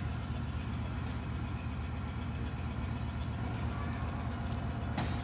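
Steady low drone of a running engine, with a single sharp click about five seconds in.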